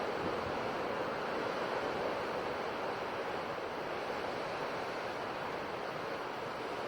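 Ocean surf washing on a shore, a steady rush of waves with no single break standing out.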